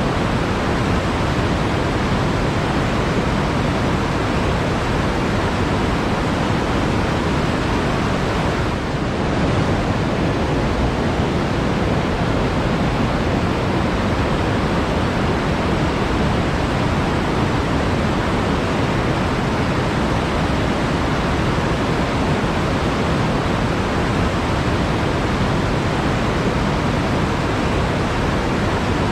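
Flowing water rushing steadily, an even, unbroken hiss of moving water.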